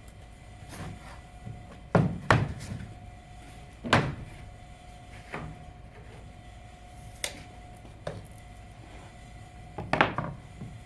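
Irregular wooden knocks and thuds, about eight over ten seconds with the loudest clustered in pairs, as pieces of wood are handled and set down.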